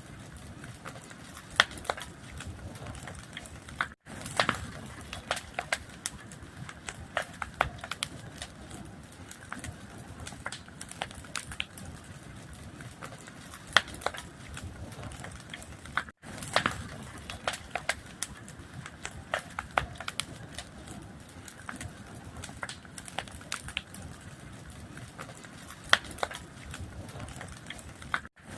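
Fire crackling: a steady hiss with frequent sharp pops and snaps. The recording loops about every 12 seconds, with a brief dropout at each join.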